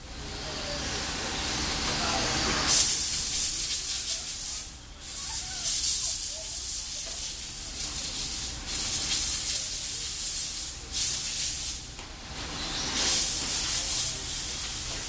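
Stock-class electric RC trucks racing on a dirt track: a steady hiss of motors and tyres that swells and dips as the trucks come past, with brief lulls about five seconds in and again about twelve seconds in.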